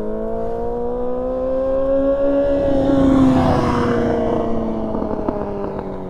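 Yamaha R6 inline-four sport bike engine accelerating, its pitch rising for a couple of seconds, then falling as the throttle is rolled off. A little exhaust popping and crackling ("popcorn") comes on the deceleration.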